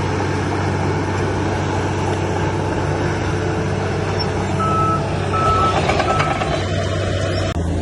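Diesel engine of heavy earthmoving machinery running steadily, with a reversing alarm beeping three times about halfway through.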